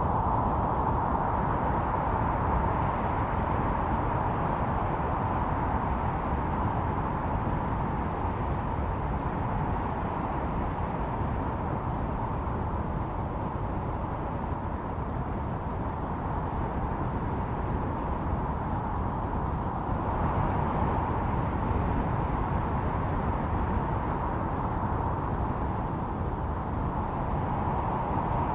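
Blizzard wind blowing steadily with a deep rumble, its howl swelling and easing in gusts: strong at the start, again about twenty seconds in, and near the end.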